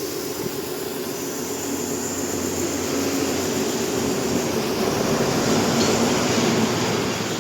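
A steady mechanical drone with hiss, swelling slightly over the first few seconds and then holding.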